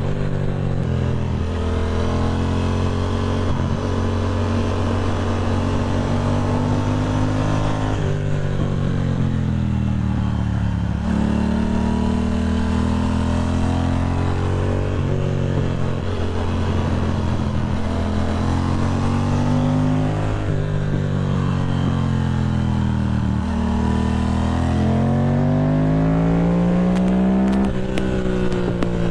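Motorcycle engine on the move, its pitch climbing and dropping repeatedly as it accelerates, shifts gears and backs off, over a steady rush of wind and road noise.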